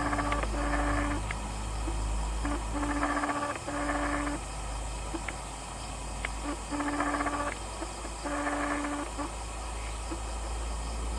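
A low steady drone from a distant palm oil mill's machinery, with an animal calling over it in paired, steady-pitched hoots: three pairs, a few seconds apart.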